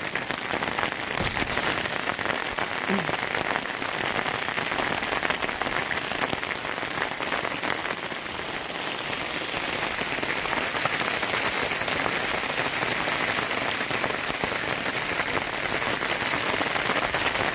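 Small hail pelting down hard, a dense steady patter of countless tiny impacts, growing a little louder about ten seconds in.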